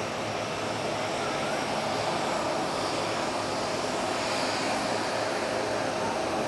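Jet airliner engines running at an airport: a steady rush that grows slowly louder.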